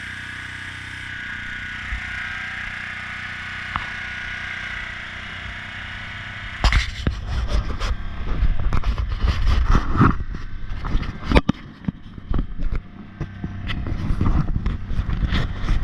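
Steady hiss of an airbrush spraying paint for about six seconds. It then gives way to loud, irregular knocks and a low rumble that run on to the end.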